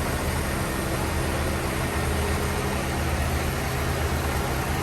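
Diesel truck engine running steadily, with a steady hiss over it.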